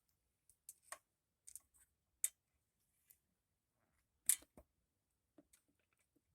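A handful of small clicks and light scrapes, with sharper clicks about two seconds in and about four seconds in, from the oil dipstick being pulled from the engine and handled to check the oil level.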